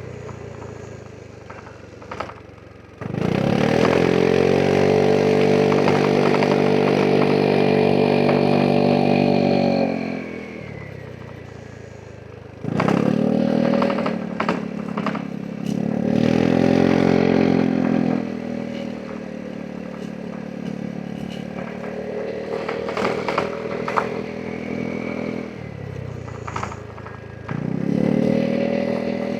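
Vespa GTS 300 scooter's single-cylinder four-stroke engine being ridden. It pulls hard under throttle for about seven seconds, eases off, gives two shorter bursts of throttle, runs quieter for a while, then opens up again near the end. While on the throttle the engine note holds at a steady pitch.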